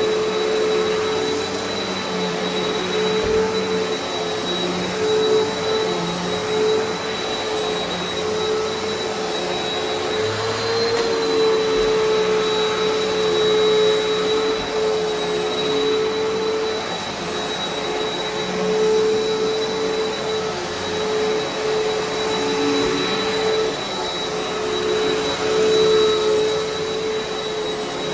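Eureka Altima upright vacuum cleaner running continuously on deep carpet with a steady motor whine, its loudness swelling and dipping a little every few seconds. The pickup is crunchy as it draws in years of built-up grit and cat hair.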